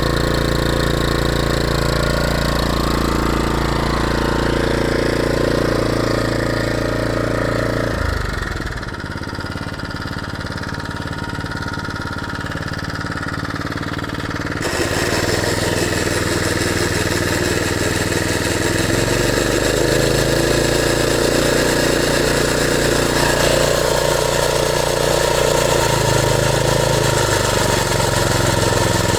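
Small engine of a GNP-4000 walk-behind lawn mower running steadily. About eight seconds in it drops to a quieter sound with no steady pitch. At about fifteen seconds the full running sound comes back abruptly, and it shifts in pitch a few times afterwards.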